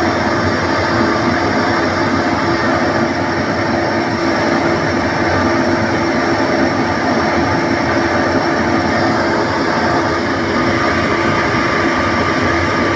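Ingersoll Rand RMB 30i oil-injected rotary screw air compressor running, a loud steady hum with a few fixed tones through it.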